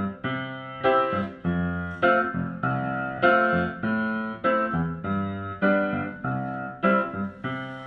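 Piano playing a gentle song intro: a steady pattern of struck notes and chords, about two a second, each ringing and fading before the next.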